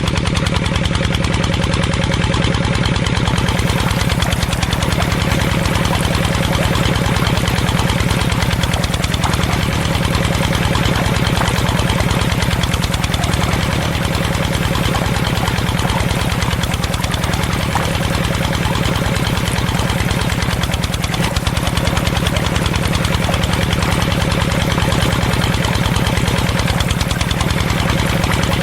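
Engine running steadily at an even idle, a fast regular beat that neither rises nor falls.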